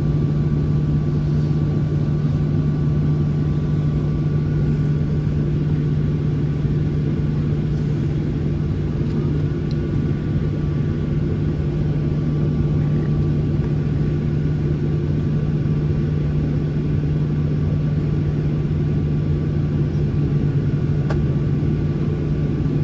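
Boeing 737 cabin noise with the engines idling while the jet holds short of the runway: a steady hum with a strong low drone and faint higher whines, unchanging throughout.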